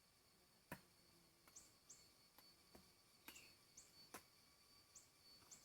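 Faint, quiet woodland ambience: a steady thin high insect tone, short high bird chirps every second or so, and about eight scattered sharp clicks or taps.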